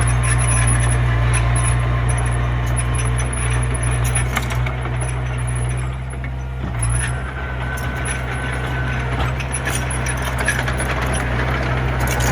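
Komatsu mini bulldozer's diesel engine running steadily, with metal clinking and rattling throughout. The engine note shifts briefly about seven seconds in.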